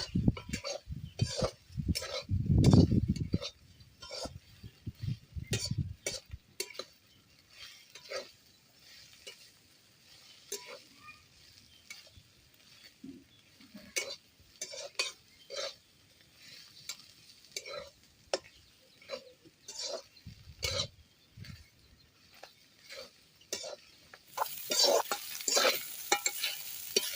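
A ladle or spatula stirring and scraping in a cooking pot, with scattered clicks and knocks against the pan and a few dull thumps. About three seconds before the end, a loud frying sizzle sets in.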